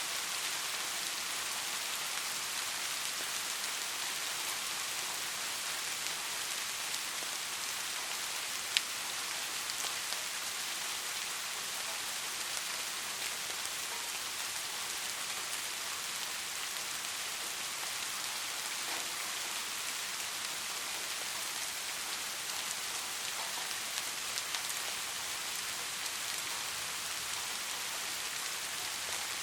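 Steady rain falling: an even hiss with fine scattered drop ticks, and one sharper, louder tick about a third of the way in.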